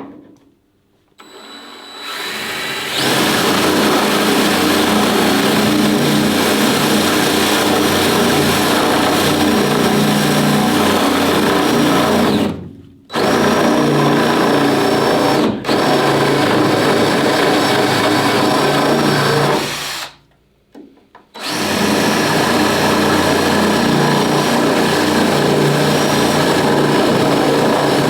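Right-angle electric drill boring out spot welds in the car's steel body panel. It runs steadily in three long stretches, stopping briefly about 13 seconds in and again about 20 seconds in.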